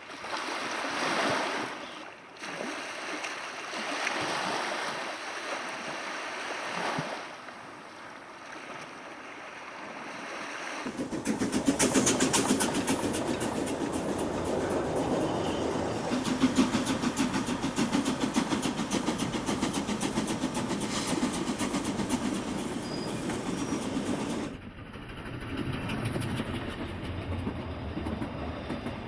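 Narrow-gauge steam train of the Rügen line running on its rails. After several swells of rushing noise, a dense, fast clatter of wheels on track sets in about eleven seconds in and runs until an abrupt change near the end.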